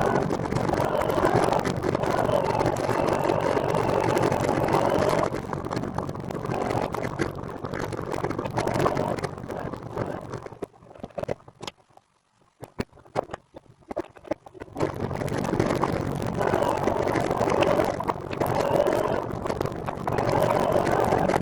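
Rushing wind and road noise on the camera microphone of a moving recumbent trike. The rush dies away almost completely for a few seconds around the middle, then comes back just as loud.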